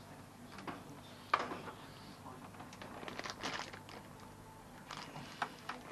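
Scattered small clicks and plastic crinkling from hands working a washing machine's replacement pressure switch and its hose, with a sharper cluster of clicks about halfway through.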